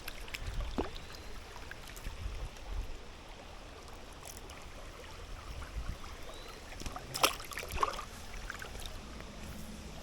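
River water flowing steadily, with low rumble on the microphone and a few short sharp sounds about seven to eight seconds in.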